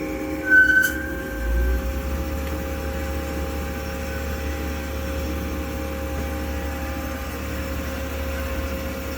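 Hyd-Mech V-18 vertical mitering bandsaw running with a steady machine hum. A short high squeal and a click come about half a second in, and a low thud about a second and a half in.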